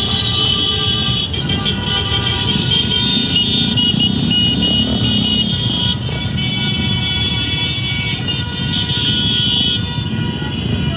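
A group of motorcycles running, engines rumbling, with several steady high-pitched tones over them and a beeping pattern from about three to six seconds in.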